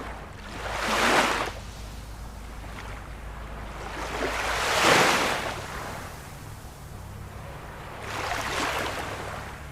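Ocean waves breaking and washing up the shore, three surges of surf, the loudest about five seconds in, over a steady low rumble.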